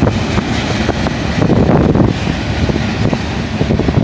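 Covered hopper cars of a freight train rolling past on the mainline: a steady rumble of steel wheels on rail with irregular clicking and clattering.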